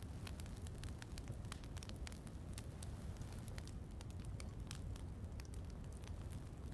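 Wood fire crackling in a fireplace, with frequent sharp, irregular pops and snaps over a steady low rumble and a soft hiss of falling rain.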